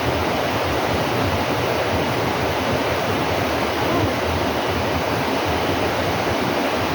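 Steady rushing of flowing water, like a nearby stream or small waterfall, running unbroken and fairly loud.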